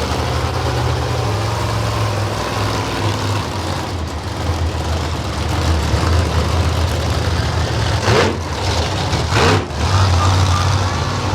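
Monster truck engine running loudly at a steady pitch, with two quick revs about eight and nine and a half seconds in.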